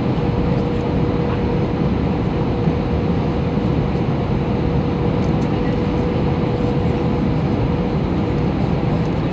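Airbus A321 cabin noise in flight: the steady rush of the engines and airflow, heavy in the low range, with a thin steady hum that fades out about eight seconds in.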